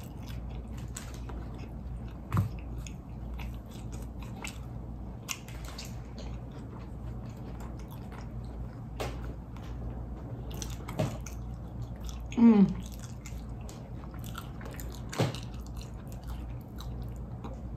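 Close-up chewing of a crispy fried chicken sandwich: wet mouth clicks and crunches of the breading. About twelve and a half seconds in there is a short falling voice sound.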